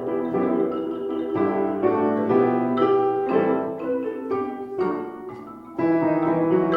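Piano playing chords, the struck notes ringing over one another. It softens a little past five seconds in, then comes back strongly near six seconds.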